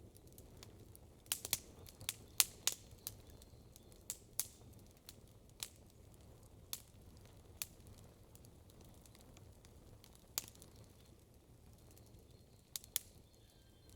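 Campfire wood crackling: sharp, irregular pops, with a quick run of them about a second in and single pops every second or two after that.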